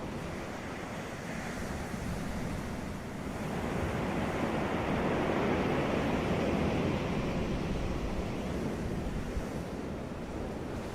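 Ocean surf washing on a beach, a steady rush of waves that swells about halfway through and eases again, with wind on the microphone.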